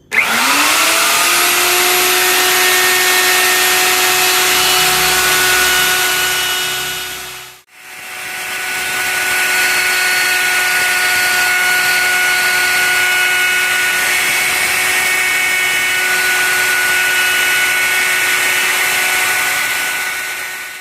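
Electric wood router running with no load: its motor spins up to a loud, steady whine, runs about seven seconds, is switched off, then is started again a second later and runs on steadily until it is switched off at the end.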